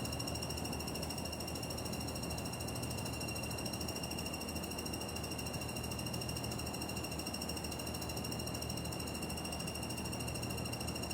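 The hot-air exhaust (condenser) fan of a Panasonic CW-N60SL2 fixed-speed window air conditioner running with an abnormal ratcheting, mechanical noise caused by its wobbling fan shaft. The noise holds steady: a high whine over a low hum.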